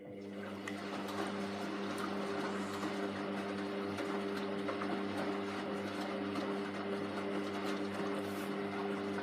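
Hoover washing machine's motor starting up after a pause, rising over about a second into a steady hum with a mechanical whirr and faint light clicks.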